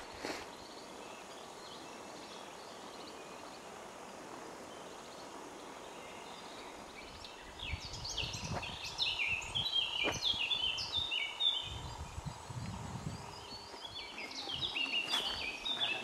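A songbird singing a quick run of stepped, falling notes about halfway through, and again near the end, over a faint steady hiss of open forest. A few low bumps come in between the songs.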